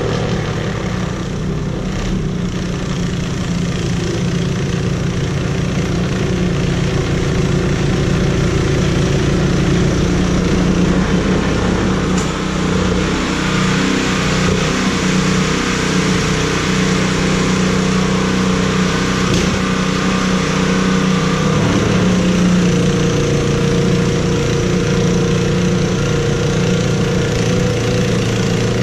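An engine running steadily, a constant low hum with a broad rushing noise over it.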